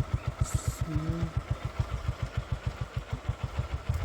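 Motor vehicle engine running with an even low chugging of about ten beats a second, with a brief voice sound about a second in.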